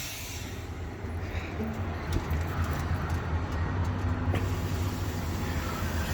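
Steady low rumble with a hiss of escaping air that grows from about four seconds in: a leaking air line in a Freightliner semi's air-brake system.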